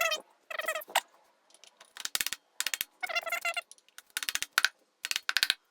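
Short bursts of metallic tool work on the engine block, about seven of them, with ratchet-like clicking and ringing metal.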